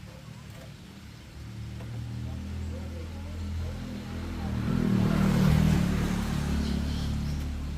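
A motor vehicle's engine running, growing louder to a peak about five seconds in, then easing off.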